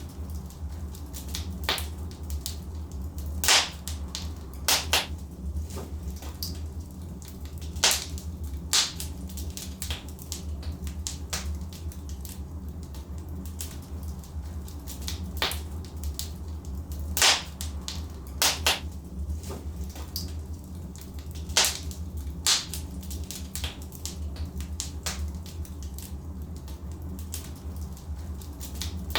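Wood fire burning in a fireplace: sharp, irregular crackles and pops from the burning logs over a steady low rumble.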